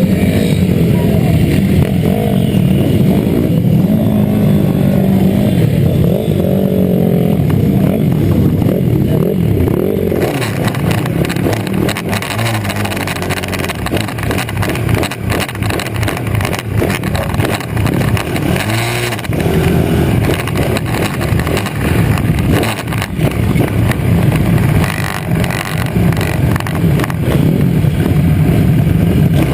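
Pit bike engines revving up and down as the bikes race, the pitch rising and falling with the throttle. About ten seconds in, a rushing noise joins the engine sound.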